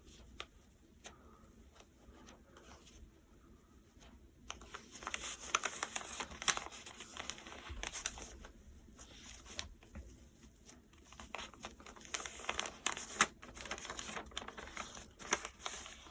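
A sheet of paper being folded and creased by hand into a paper airplane: faint taps at first, then crinkly rustling and sharp creasing from about four seconds in, pausing briefly twice.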